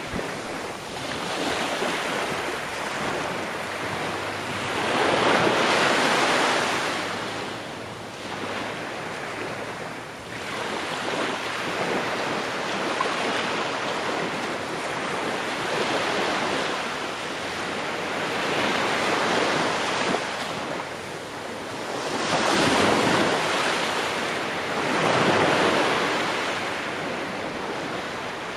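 Ocean waves breaking and washing onto a shore, the surf swelling and fading in slow surges every few seconds, with the strongest waves coming about five seconds in and twice near the end.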